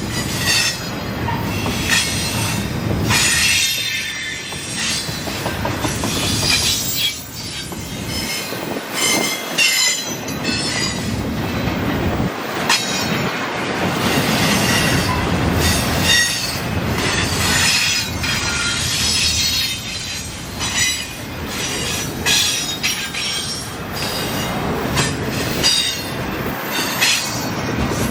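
A train rolling past with its wheels squealing on the rails, high squeals coming and going, over a steady rumble with clicks from wheels crossing rail joints.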